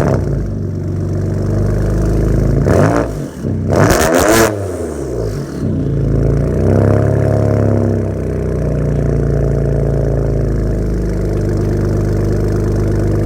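BMW inline-six running through a straight-piped exhaust with catless downpipes and freshly fitted Jones resonators. It comes on with a sudden loud burst at the start, is revved sharply twice about 3 and 4 seconds in and once more gently around 7 seconds, then settles to a steady idle.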